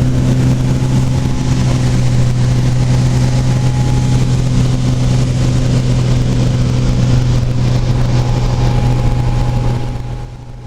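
Small Cessna aircraft's engine and propeller, a steady low drone with a rushing noise over it. It drops away sharply near the end.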